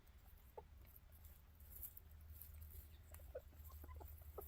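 Chickens clucking faintly: a few short, soft clucks spread over a few seconds, above a low steady hum.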